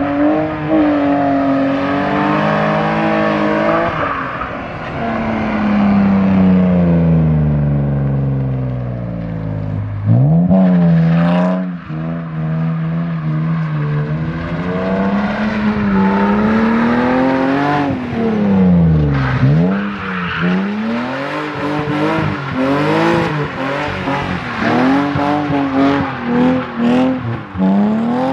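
BMW E36 drift car's M54B30 3.0-litre straight-six revving hard, the revs climbing and falling over and over, with two deep drops to low revs about ten and nineteen seconds in.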